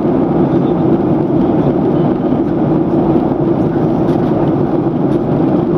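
Steady cabin noise inside a Boeing 737-800 in flight: the even rush of airflow over the fuselage mixed with the hum of its CFM56 jet engines.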